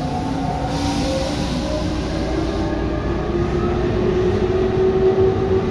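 Tobu 9050 series train running, with steady wheel and running noise and several motor tones slowly rising in pitch. A hiss rises briefly over the running noise from about a second in.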